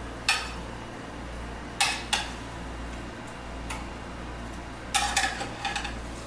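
Metal pan and utensils clacking as chicken pieces are turned over on a baking tray: a few separate sharp knocks, then a quick cluster of clinks near the end, over a low steady hum.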